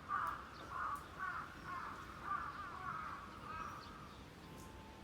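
A bird calling over and over with short, rough calls, about two a second, growing fainter toward the end. A faint steady tone comes in near the end.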